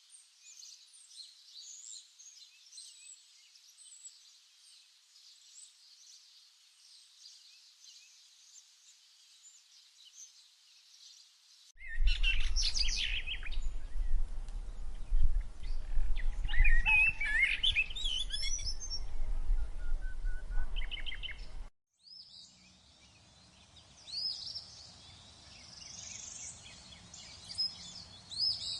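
Wild birds calling and chirping in a forest soundscape, in three stretches with abrupt cuts between them. The first is faint, with high chirps. The middle one is louder, with a low rumble under the calls, and cuts off suddenly. The last has clearer high calls.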